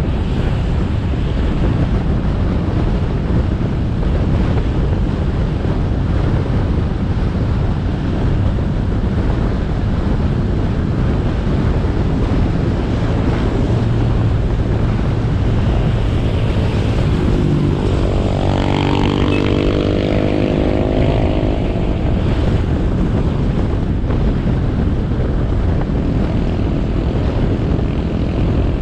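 Motorcycle riding on the road: steady wind buffeting the camera microphone over engine and road noise. About halfway through, an engine note rises in pitch and then falls away over several seconds.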